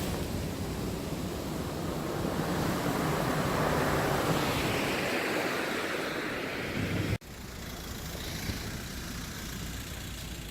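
Sea surf washing over shore rocks, with wind on the microphone, swelling and easing for about seven seconds. Then it cuts off abruptly and a quieter, steady low rumble follows.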